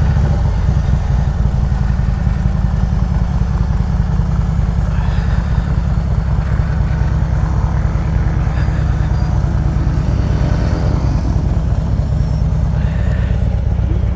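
Harley-Davidson Road Glide V-twin engine running steadily at low road speed, with a dense, even exhaust pulse and no revving.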